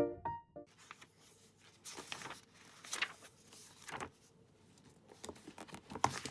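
Piano music ends about half a second in, then faint scattered rustles and light taps of small objects or paper being handled.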